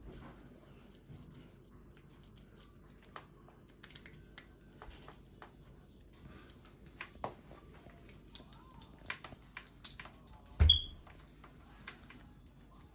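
Scattered light clicks and taps of plastic plug parts and cable being handled while a replacement mains plug is fitted to a vacuum cleaner's power cord, with one louder knock about three-quarters of the way through.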